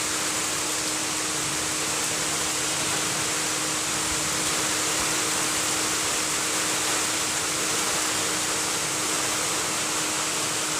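Steady hiss of falling rain, even and unbroken, with a steady low hum underneath.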